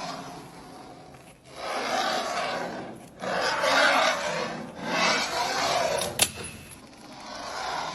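Rasping, scraping strokes, something being rubbed or filed, coming in four long swells of a second or more each, with a sharp click about six seconds in.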